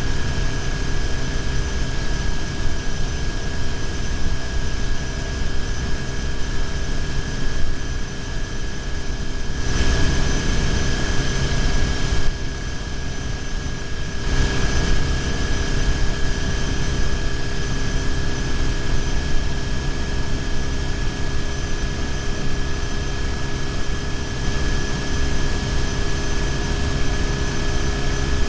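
BMW R1150GS boxer-twin engine running steadily at highway cruising speed, with wind and road noise on a bike-mounted camera. About ten seconds in, the hiss brightens for a couple of seconds, then goes duller for a moment.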